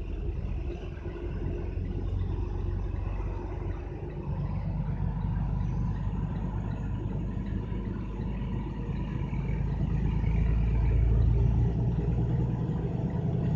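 Motor vehicle running with a steady low road rumble, growing louder in the second half.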